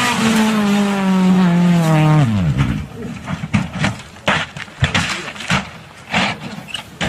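Rally car engine at high revs, its pitch sagging and then dropping steeply about two seconds in as the car goes past. Several short, sharp knocks or bangs follow.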